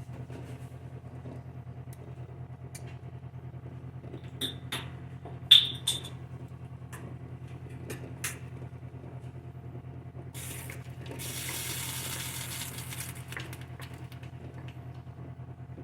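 Kitchen work sounds over a steady low motor hum: a few sharp metallic clinks with a ringing tone around the middle, the loudest about five and a half seconds in, then about three seconds of rushing hiss like a tap running.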